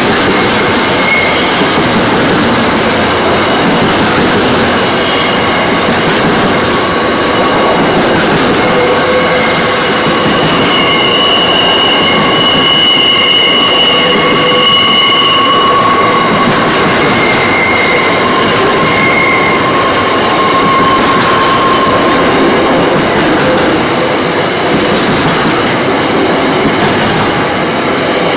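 Loaded container wagons of a freight train rolling past at close range: a steady, loud rumble of steel wheels on rail. Through the middle stretch, high-pitched wheel squeal comes and goes over the rumble.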